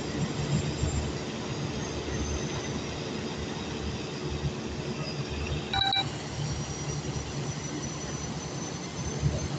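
Heavy unloading machinery running with a low, uneven rumble as a barge of cobblestones is discharged. A short, high beep sounds once about six seconds in.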